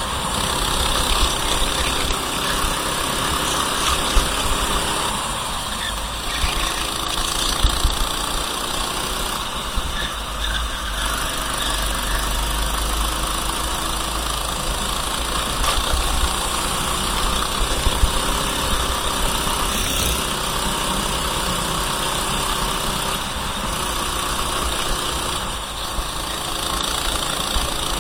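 Racing kart engine running at speed, its pitch rising and falling as the throttle opens and closes, over a steady rush of noise from driving on a wet track.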